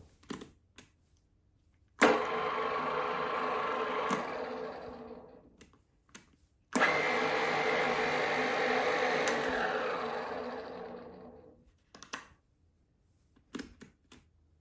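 Huvema HU 25TK geared-head drill press running twice: each time the motor and spindle gearbox start suddenly with a click, run steadily with a hum and gear whine, then wind down with falling pitch once switched off. Short sharp clicks between the runs.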